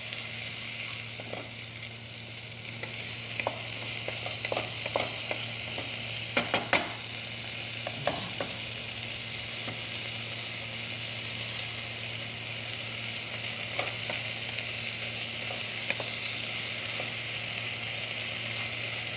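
Chicken pieces sizzling as they sauté in oil with ginger, onion and garlic in a nonstick wok, stirred with a wooden spatula that knocks against the pan now and then. A quick cluster of sharp knocks about six and a half seconds in is the loudest moment, over a low steady hum.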